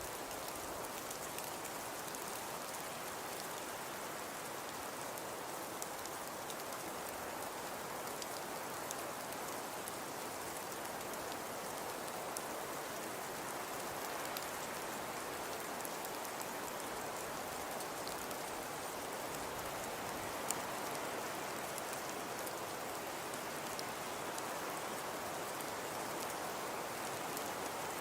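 Fireplace crackling softly: a steady hiss dotted with small pops, and one sharper pop about three-quarters of the way through.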